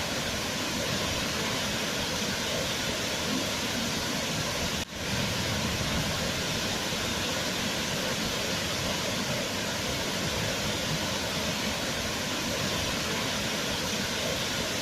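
Waterfall: a steady rush of falling water, with a brief drop in level about five seconds in.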